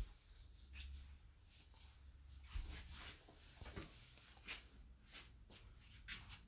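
Near silence: quiet room tone with a faint low hum and scattered faint clicks and rustles.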